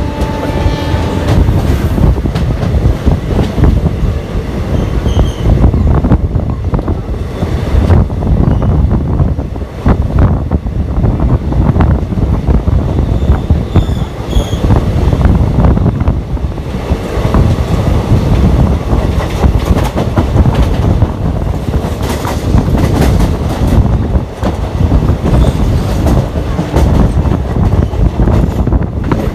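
A moving passenger train running along the tracks: a loud, steady rumble of wheels on rail.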